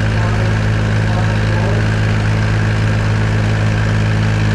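Antique tractor engine running at a steady speed, a constant low hum with no change in revs.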